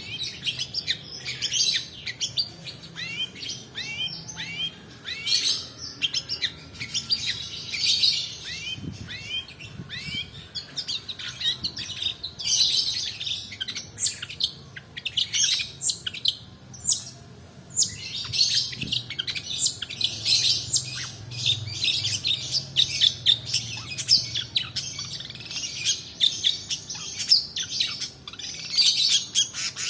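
Long-tailed shrike (pentet) singing a long rolling song: a fast, nearly unbroken run of chirps and quick down-slurred notes.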